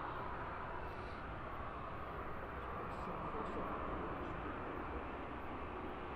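Steady, distant jet engine rumble and hiss of an arriving Boeing 737-800 airliner.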